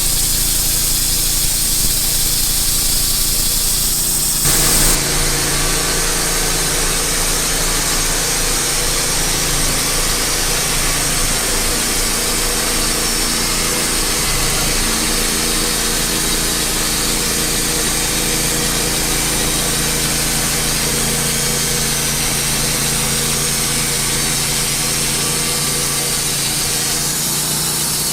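Woodmizer band sawmill running steadily, its engine under load as the band blade cuts lengthwise through a barkless pine log. About four seconds in, the hiss of the blade in the wood rises sharply over the engine and holds steady, easing near the end.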